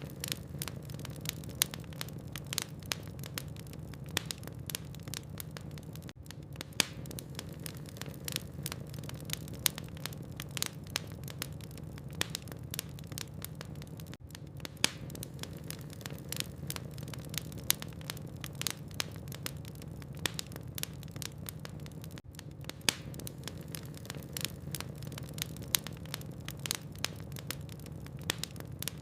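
Logs burning in a fireplace, crackling with many irregular sharp snaps and pops over a steady low rumble.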